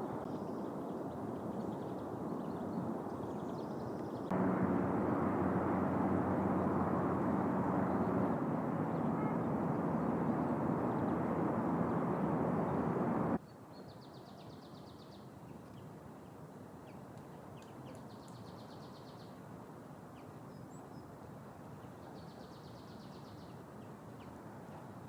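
Great spotted woodpecker drumming: three short, rapid rattles, each about a second long and about four seconds apart, over quiet outdoor ambience. Before them, a loud, steady rushing background noise stops abruptly.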